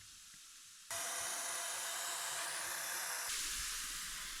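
Aerosol can of air-conditioner cleaning spray hissing steadily as it is sprayed between the indoor unit's heat-exchanger fins, starting about a second in.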